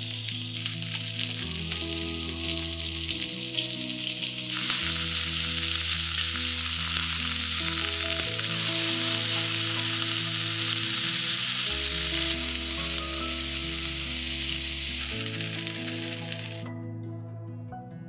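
Scallops and squid sizzling in oil on a hot enamelled cast-iron grill pan: a loud, steady sizzle that cuts off abruptly near the end. Soft background music plays underneath.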